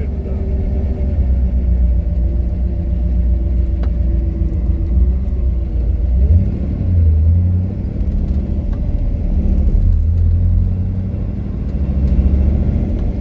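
1967 Mercury Cougar's V8 running on Holley Sniper EFI, heard from inside the car, idling at roughly 850–1050 rpm. The revs come up a few times in the second half, to about 1600 rpm near the end.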